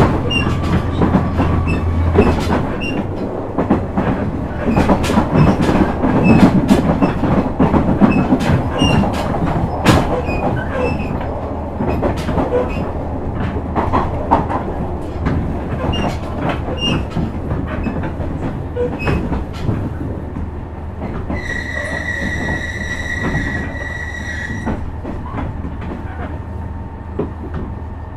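KiHa 126 series diesel railcar running, heard from inside the car: the engine's low drone drops away about two seconds in and the car runs on with rail-joint clicks and wheel-on-rail noise, gradually getting quieter. Near the end a high steady tone sounds for about three seconds.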